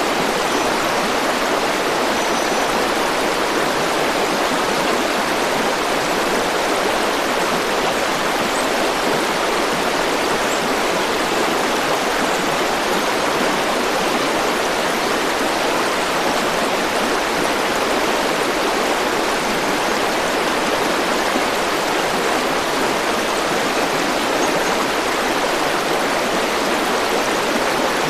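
River water flowing and rushing steadily, a constant even roar of running water without pauses.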